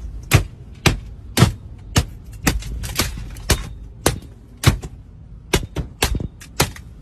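A rapid series of sharp knocks, roughly two a second, over a low rumble.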